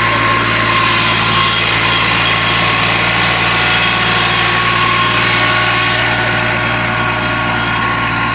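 Kubota tractor's diesel engine idling steadily, with an even, unchanging hum.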